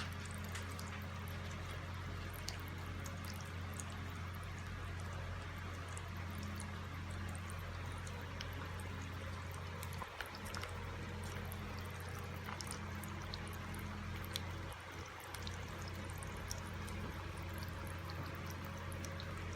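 Water pouring steadily for the cockatiel's bath, under a steady low hum, with scattered faint ticks and splashes.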